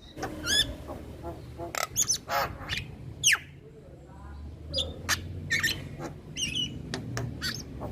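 Male Javan myna (jalak kebo) calling: a quick series of short whistles and harsh squawks, with one longer call sweeping down in pitch about three seconds in.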